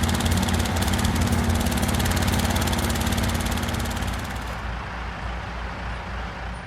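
Cartoon vehicle engine sound effect, running steadily with a rapid fine pulsing and low hum. Its high rasp drops away about four and a half seconds in, and the sound then fades out.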